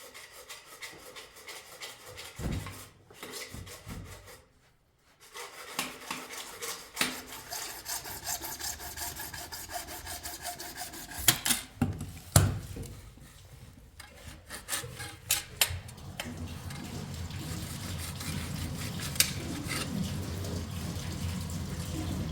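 Irregular scraping and rubbing, like rasping or sawing by hand, broken by several sharp knocks. About three-quarters of the way through, a steady low rushing sets in.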